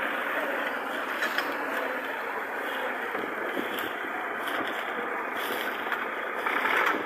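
Tractor engine running steadily with mechanical rattling, and a louder clattering stretch near the end.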